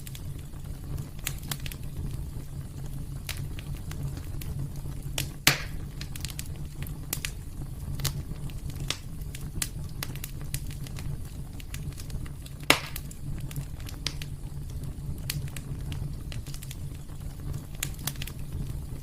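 Wood fire burning in a fireplace: a steady low rumble with many scattered crackles, and two louder pops, one a third of the way in and one about two-thirds through.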